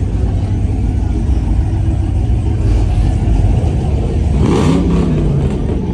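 Car engines running at a steady low rumble. About four and a half seconds in there is a short rise and fall in pitch, like a quick rev.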